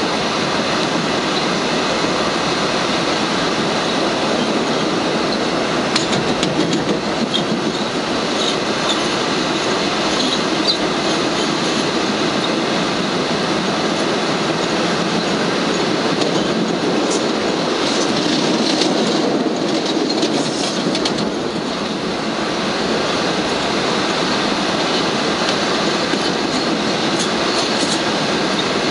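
1965 PA-1 PATH rapid-transit car running along the track, heard from inside the car: a steady rumble of steel wheels on rail, with scattered clicks as the wheels pass over joints and switches and a few brief high wheel squeals.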